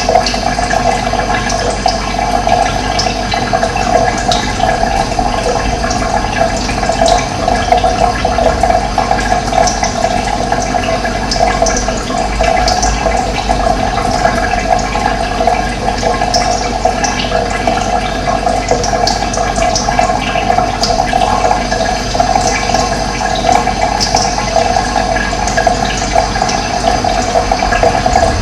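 Running water: a steady, loud rushing flow that never pauses.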